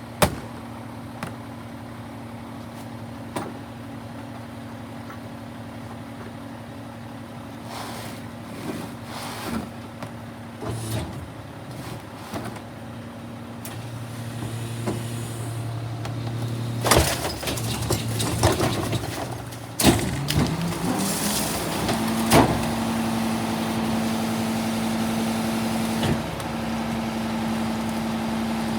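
Garbage truck engine running at a steady idle with scattered knocks and clanks. About two-thirds of the way through, a burst of loud clanks comes and the engine speeds up smoothly to a steady higher pitch.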